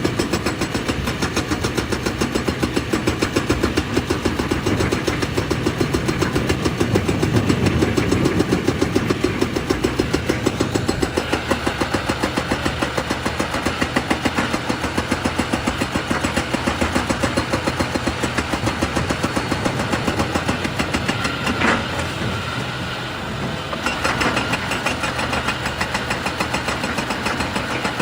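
Excavator's diesel engine running with a fast, even throb, heavier through the first third and then easing off, with a few sharp knocks about two thirds of the way through.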